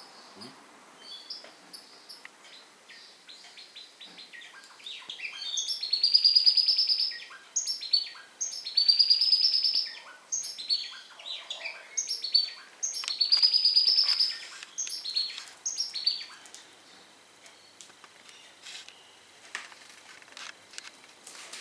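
Small pet birds chirping and calling, with three loud rapid trilled phrases in the middle and scattered short chirps before and after.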